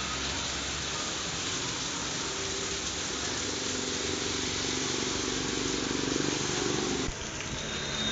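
Heavy monsoon rain pouring onto a flooded street and parked cars, a steady dense hiss. A low engine hum joins in the middle and stops abruptly about seven seconds in.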